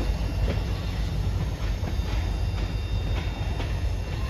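Freight cars rolling slowly over jointed track with a steady low rumble, their wheels giving light, irregular clicks as they pass over the rail joints.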